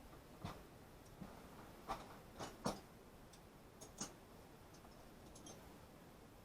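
Light, scattered clicks and taps of small hand tools and wiring parts being handled on a workbench: about six sharp clicks in the first four seconds, then a few faint ticks.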